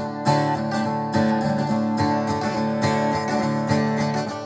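Acoustic guitar strumming sustained chords, with no singing.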